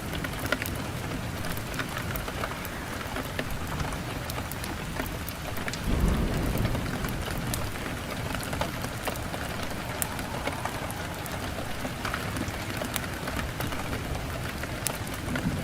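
Wood fire burning in a fireplace, crackling with many small sharp pops over a steady hiss, with a low rumbling swell of the flames about six seconds in.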